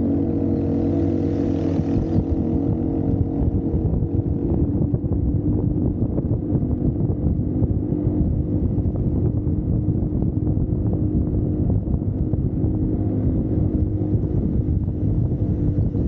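Single-cylinder four-stroke dirt bike engine running under way at fairly steady revs, with a rough, pulsing note and wind buffeting the microphone.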